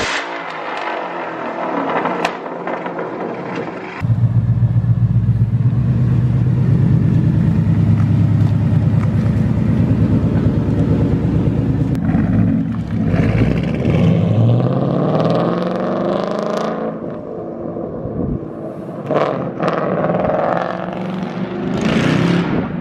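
2015 Ford Mustang's exhaust, with the resonator cut out and replaced by a straight H-pipe, running very loud. The engine note cuts in abruptly about four seconds in and holds steady, then rises and falls in pitch several times as it is revved.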